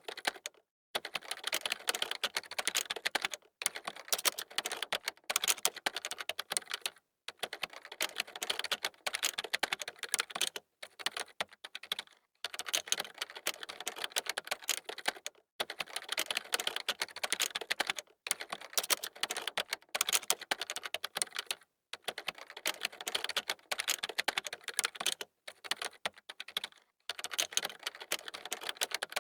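Computer keyboard being typed on fast, in dense runs of key clicks broken by brief pauses every second or few.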